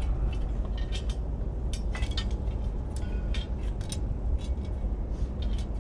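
Bricks being set in place by hand, dry-laid without mortar: a series of short clinks and knocks of brick on brick, over a steady low rumble.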